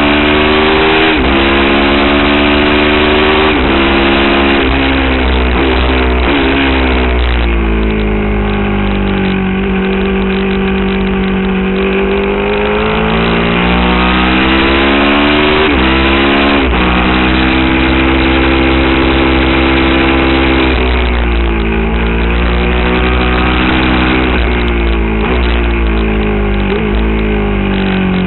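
Aprilia Tuono's V-twin engine at full track pace, heard from on the bike: its pitch climbs under hard acceleration, steps through gear changes, and falls away several times under braking and downshifts, with stretches held steady through corners. A constant rush of wind noise lies underneath.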